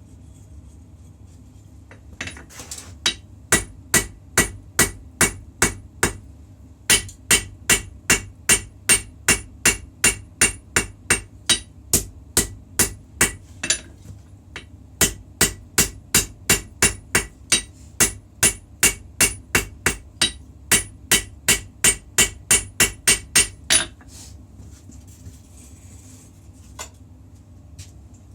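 Hammer blows forging a puukko blade's steel on an anvil, each strike ringing metallically, about three blows a second. The blows come in three runs separated by short pauses, over a steady low hum.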